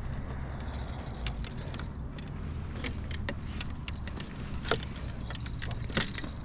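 Wind buffeting the microphone as a steady low rumble, with scattered sharp clicks and ticks, the loudest two near the end.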